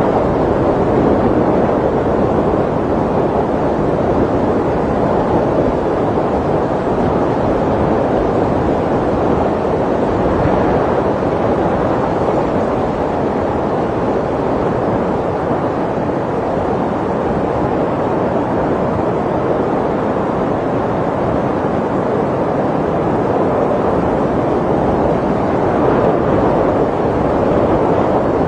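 Snowstorm wind blowing steadily: a dense, even rushing noise with no breaks.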